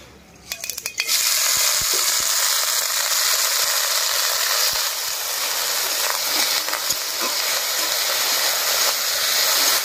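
Shredded raw potato hitting hot mustard oil in a wok and sizzling in a steady loud hiss that starts suddenly about a second in. A metal spatula knocks lightly a few times as it is stirred.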